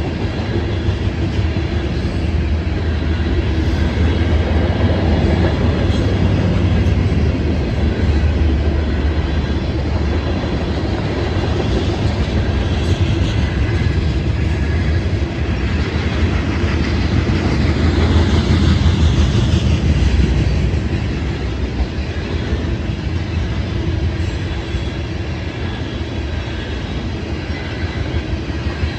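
Norfolk Southern freight train rolling past, a steady, loud rumble of its cars on the rails that swells twice and eases slightly in the last few seconds.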